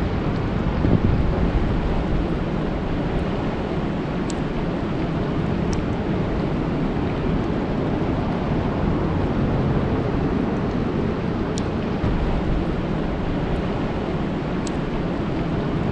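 Steady rain falling on a lake: a dense, even hiss that is heaviest in the low end, with a few faint sharp ticks of single drops.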